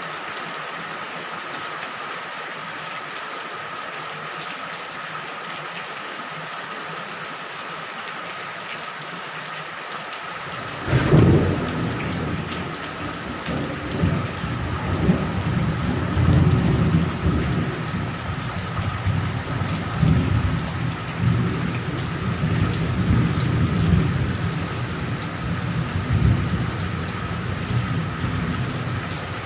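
Steady rain falling. About eleven seconds in, a sudden thunderclap breaks and rolls into deep rumbling thunder that swells and ebbs repeatedly under the rain.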